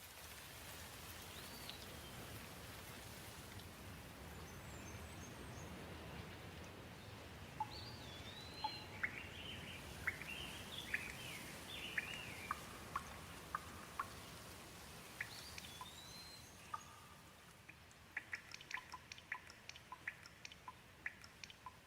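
Gentle rain falling as a steady hiss, with a bird calling in short chirps and whistles through the middle and a quick run of sharp ticks near the end.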